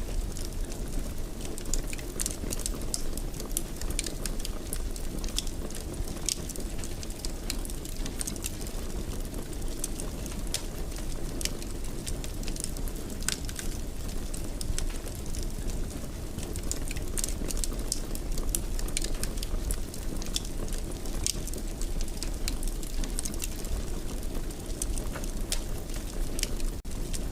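Wood fire in a fireplace crackling, with frequent sharp pops and snaps over a steady low rushing burn.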